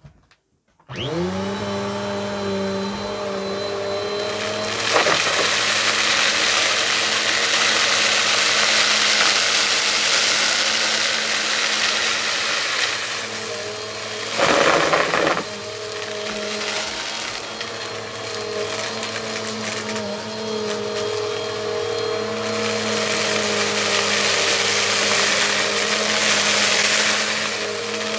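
Bissell vacuum cleaner switched on about a second in, its motor spinning up with a rising whine and then running steadily. The rushing air noise gets louder about five seconds in, with a brief louder surge around the middle.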